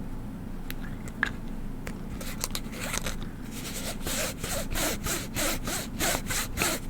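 A small plastic bottle of liquid shaken in a rhythmic run of swishes, about three a second, starting about two seconds in. The liquid inside has gone foamy.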